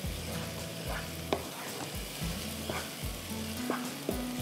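Tomato-and-spice masala sizzling in oil in a frying pan as a wooden spoon stirs it, with a few light clicks of the spoon against the pan.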